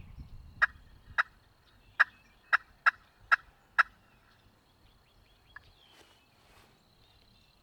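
A turkey call being tried out, sounding a series of seven short, sharp yelps over about three seconds, with one faint note a couple of seconds later.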